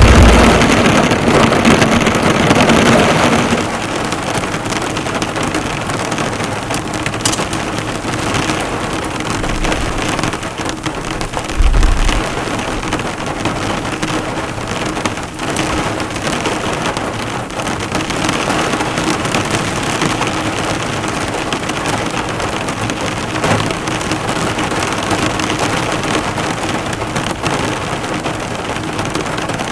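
Heavy rain drumming on a car's bonnet and roof, heard from inside the car as a steady dense patter. It is louder for the first few seconds, and a brief low thump comes about twelve seconds in.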